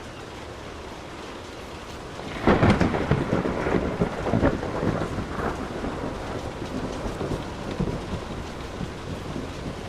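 Steady rain falling, with a thunderclap breaking in sharply about two and a half seconds in: a crackling crash that rolls on and slowly fades back into the rain.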